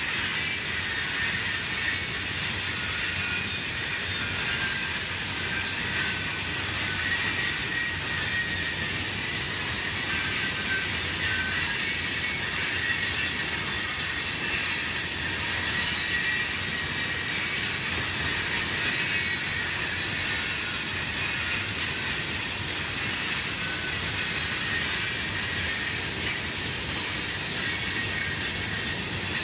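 Freight train cars rolling steadily past on the rails, a continuous rumble with a high-pitched wheel squeal ringing over it.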